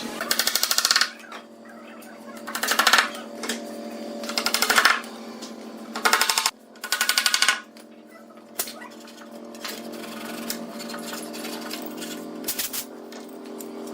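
Power tool running in five short bursts of rapid strokes in the first eight seconds, over a steady hum.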